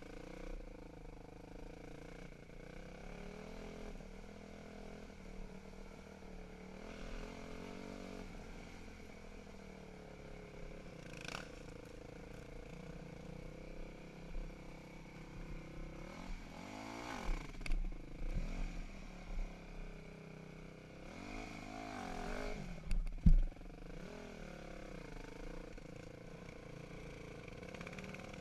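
Dirt bike engine running, its pitch rising and falling with the throttle, with two stronger bursts of revving in the second half. A sharp knock comes right after the second burst and is the loudest sound.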